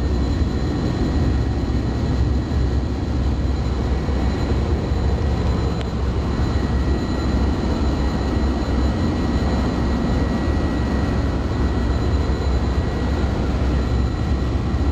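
Passenger airplane cabin noise in flight: a steady, unbroken rush of engine and airflow noise, heaviest in the low end, with faint steady high-pitched whines over it.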